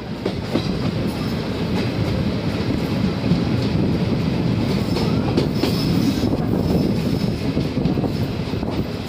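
A moving passenger train heard from an open coach doorway: a steady rumble of the running coaches, with the wheels clattering over the rails in scattered clicks.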